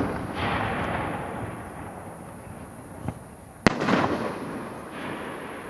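Aerial firework shells bursting: a small sharp pop about halfway in, then a loud sharp bang, each followed by a long noisy tail that dies away.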